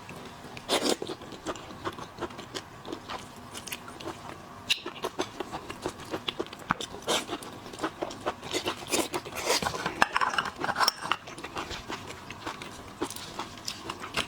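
Close-miked eating of shellfish: wet chewing and sucking with a dense run of short sharp crackles and clicks, busiest in the middle stretch.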